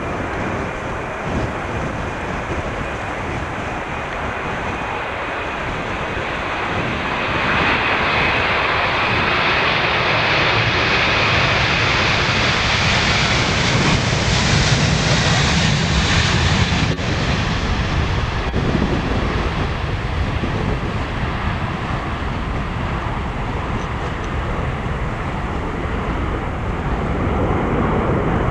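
Airbus A330-200 twin-engine jet taking off. The engine roar builds over several seconds, peaks about halfway through, then slowly fades as the aircraft passes.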